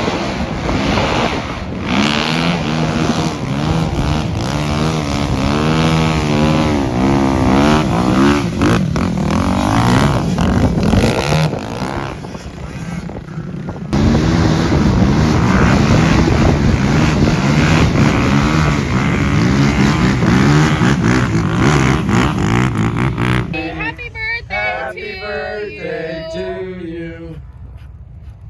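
Off-road vehicle engine running hard at the dunes, its pitch rising and falling as it revs, with a rushing noise throughout; it breaks off abruptly about halfway through and starts again, then fades to quieter pitched sounds near the end.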